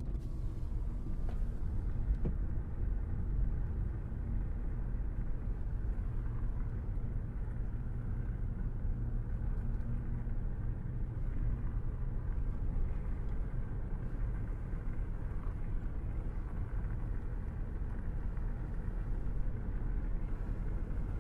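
Steady low rumble of a car being driven on the open road, heard from inside the cabin: engine and tyre noise at an even cruising speed.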